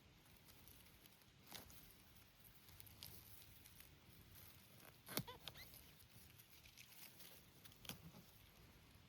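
Near silence, with a few faint soft clicks and rustles and a brief faint chirp about five seconds in.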